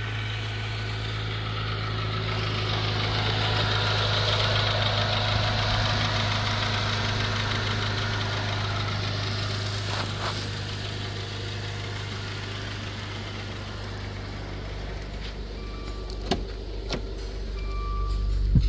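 2014 Maserati Quattroporte's 3.0-litre twin-turbo petrol V6 idling steadily. Near the end a few clicks and two short electronic beeps.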